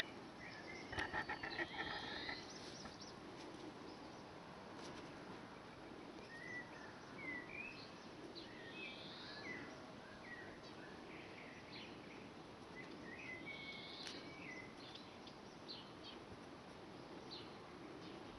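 Faint birds chirping over a steady background hiss. The short chirps come scattered throughout, with a louder flurry about a second in.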